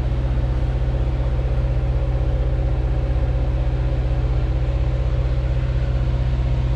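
A sailing yacht's engine running steadily under way, a low, even drone with a fast, regular pulse.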